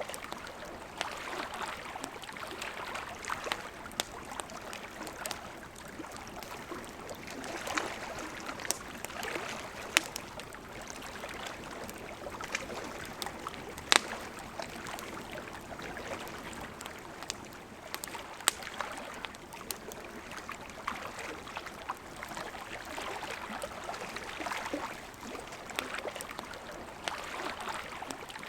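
A river flowing steadily in gentle swells, with a campfire crackling: scattered sharp pops, two of them louder about ten and fourteen seconds in.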